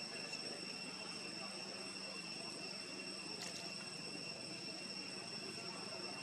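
Insects trilling steadily in a high, even drone over a low background hum, with a single sharp click about three and a half seconds in.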